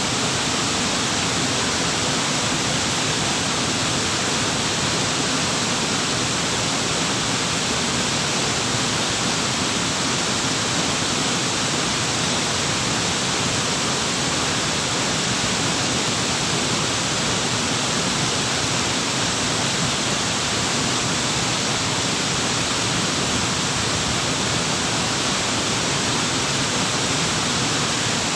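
Waterfall rushing in a steady, unchanging wash of noise.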